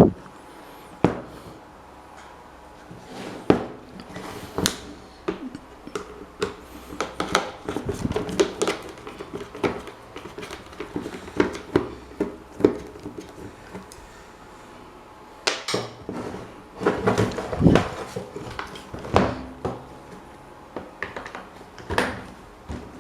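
Irregular clinks, clicks and knocks of metal parts and hand tools being handled on a workbench while an old rusty desk fan is taken apart. The clatter comes in busier bursts partway through and again later on.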